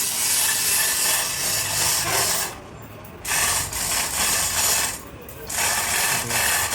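Pneumatic impact wrench rattling in three bursts of about two seconds each, with short pauses between them.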